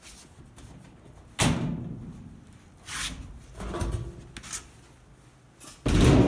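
Sheet-metal cabinet of a Whirlpool top-load washer being worked off the machine: a few separate metal clunks and bangs. The loudest comes about a second and a half in, and another loud one near the end.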